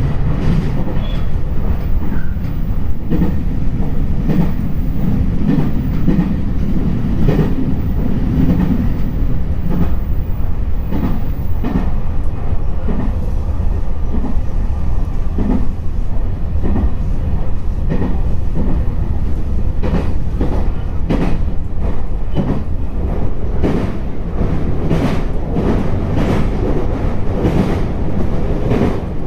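JR East E721-series electric train running at speed, heard from on board: a steady low rumble with clickety-clack knocks as the wheels pass over rail joints, coming thicker and more regularly in the second half.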